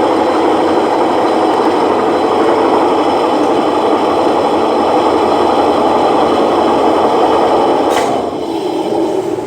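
Electrolux Turbo Rápida LTR10 washing machine running with a steady mechanical whir. A sharp click comes about eight seconds in, after which the sound drops away.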